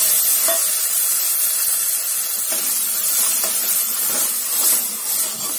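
Wet ground tomato, onion, ginger and garlic paste frying in hot oil in an aluminium pressure cooker, making a steady sizzling hiss, with a few faint clicks.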